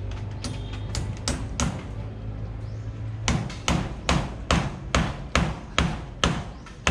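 Hammer blows on wood, likely nails being driven: a few scattered knocks at first, then a steady run of sharp ringing strikes, about two and a half a second, from about three seconds in.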